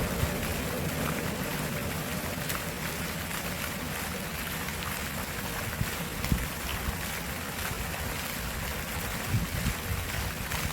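Stream water flowing steadily, with a few brief louder knocks about six and nine seconds in.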